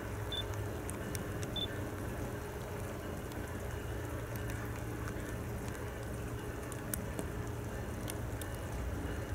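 Rain falling, with scattered drops ticking sharply on the camera over a steady low rumble. Two short high chirps sound in the first couple of seconds.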